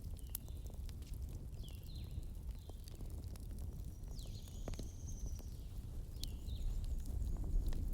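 Wood fire in a fireplace crackling, with irregular sharp pops over a low steady rumble. Short high chirps come every second or so, and a longer high whistle sounds about four seconds in.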